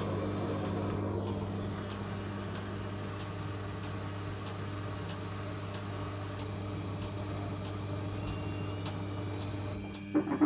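Logik L814WM16 washing machine running: a steady motor hum with a faint, regular ticking, then a few sharp knocks near the end.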